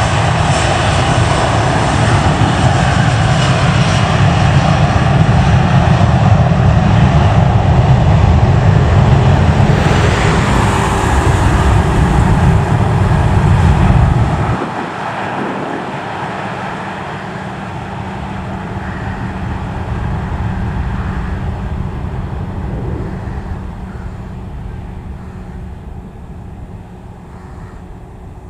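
Twin-engine cargo jet at takeoff power, its engines loud with a heavy low rumble that drops away abruptly about halfway through. The engine noise then fades slowly as the aircraft climbs away.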